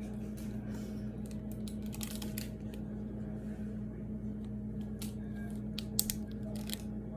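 Rubber bands being stretched and snapped one at a time onto a watermelon: irregular sharp snaps, the loudest about six seconds in, over a steady low hum.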